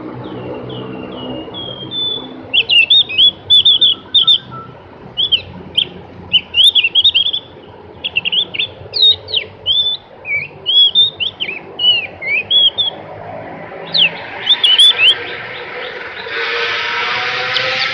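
Javan grey-throated white-eye (opior jawa) singing a long, fast run of sharp, slurred whistled notes that sweep up and down, starting softer and turning loud and chattering after about two seconds. Near the end a steady hiss rises under the song.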